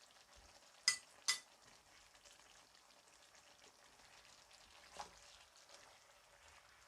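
Pan of chicken, pineapple and vegetables cooking with a faint sizzle, with two sharp ringing clinks of a utensil against the pan about a second in and a softer tap near five seconds.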